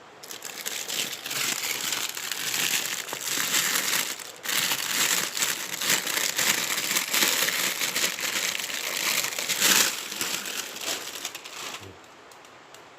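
Packaging being unwrapped by hand, a continuous crinkling and rustling. It pauses briefly about four seconds in and stops about a second before the end.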